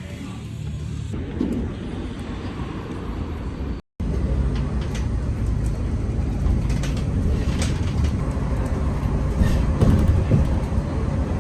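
Steady low rumble of a moving vehicle, with faint light clicks over it. It drops out for a moment about four seconds in.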